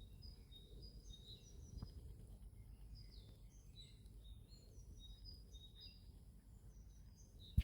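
Small woodland birds chirping, many short high calls in quick succession over a steady low rumble of outdoor noise. A single sharp click comes at the very end.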